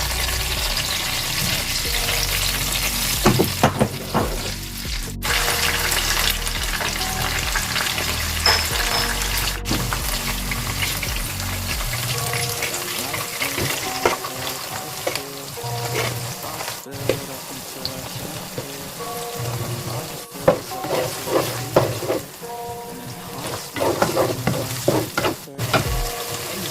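Chili sambal with petai beans frying and sizzling in oil in a pan, stirred with a spatula that knocks against the pan now and then.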